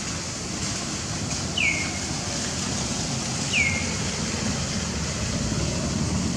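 A bird gives two short, high chirps about two seconds apart, each sweeping downward in pitch, over a steady background hiss.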